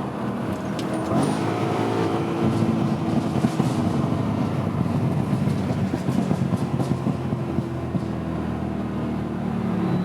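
BMW E92 M3's 4.0-litre V8 running under way. Its pitch climbs about a second in as it revs up, then it holds at fairly steady revs.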